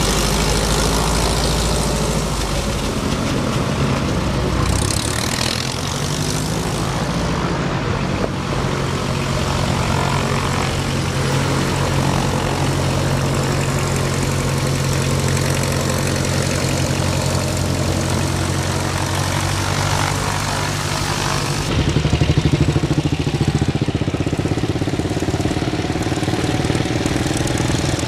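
Engine running steadily with a low hum. About three quarters of the way through, a light propeller airplane's engine comes in louder, its pitch rising.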